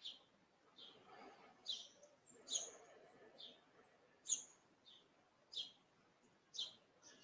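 A small bird chirping over and over: short, sharp, high chirps, about one a second, faint.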